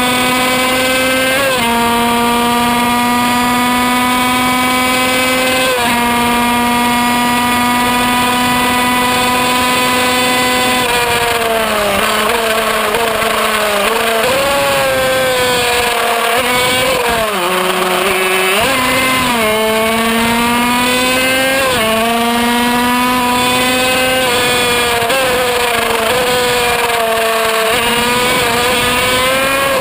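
Kreidler Van Veen 50cc two-stroke racing engine at full throttle, its high-pitched note climbing through each gear with quick upshifts about a second and a half and six seconds in. About halfway through the revs fall away through downshifts to their lowest point, then the engine builds again with more quick upshifts.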